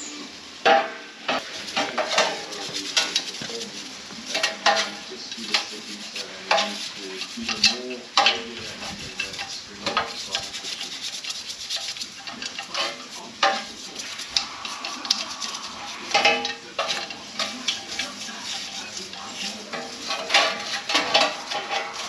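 Repeated metallic clinks, clanks and clatters of tools and parts being handled, at an irregular pace.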